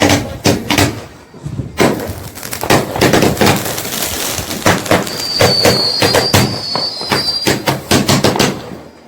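Fireworks going off: a rapid run of sharp bangs that thickens into dense crackling after about two seconds, with a high whistle through the middle.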